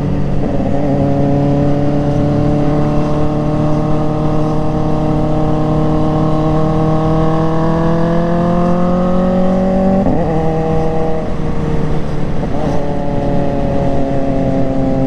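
Motorcycle engine running under way, its pitch climbing slowly as it accelerates in one gear for about ten seconds, then dropping with a gear change and again a couple of seconds later before holding steady.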